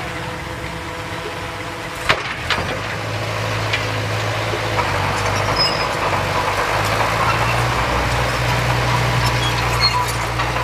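Heavy earthmoving machine's diesel engine running. A sharp knock comes about two seconds in, and then the engine picks up and runs louder and steady.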